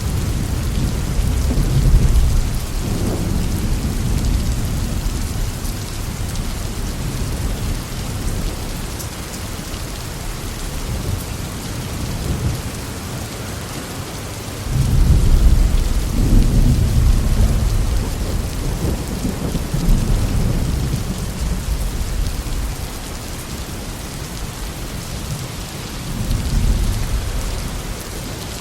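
Heavy rain falling steadily, with rolling thunder rumbling in waves: a swell about two seconds in, the loudest peal from about halfway through that rolls on for several seconds, and another rumble near the end.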